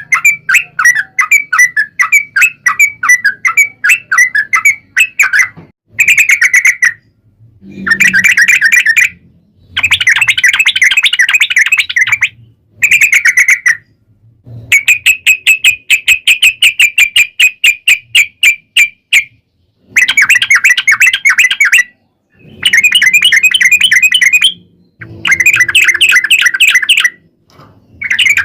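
Yellow-vented bulbul (trucuk) singing its long, fast chattering phrases. Each phrase is a rapid run of repeated notes, one to four seconds long, with short pauses between them. This is the bird's loud song, used to provoke other bulbuls into answering.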